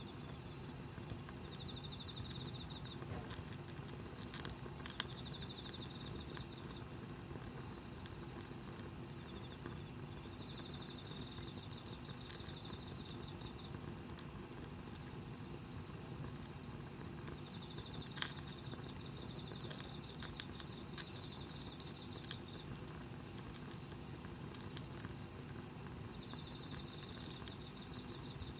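Insects calling in regular trills, a high-pitched one and a lower one taking turns, each trill about a second long and repeating roughly every two seconds. A few sharp crackles from the campfire come through, and a hiss grows louder in the last few seconds.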